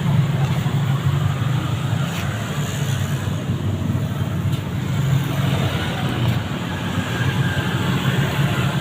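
Steady low mechanical hum with a noisy hiss over it, unchanging throughout.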